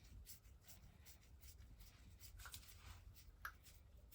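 Near silence, with faint scattered clicks and rubbing from small metal parts being handled and turned, one slightly sharper tick about three and a half seconds in.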